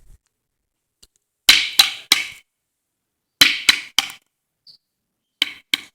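Sharp knocks on a hard surface, struck in three quick sets of three, the strikes about a third of a second apart.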